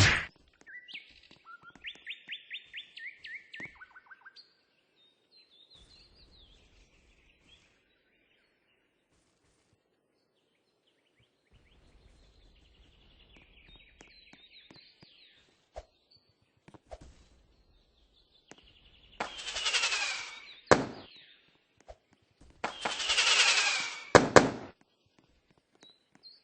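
Small songbird singing rapid trills of repeated notes in the first few seconds, with fainter chirps later. About two-thirds of the way in come two loud rushing bursts of noise, each a second or two long, the loudest sounds here.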